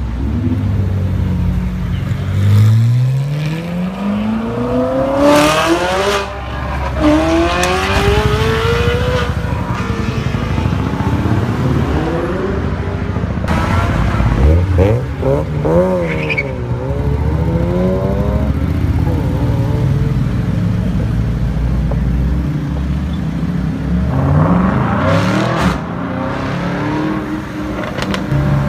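High-performance sports car engines revving and accelerating hard. The pitch climbs in steps through quick upshifts over the first several seconds, swings sharply up and down in throttle blips about halfway through, and rises again near the end.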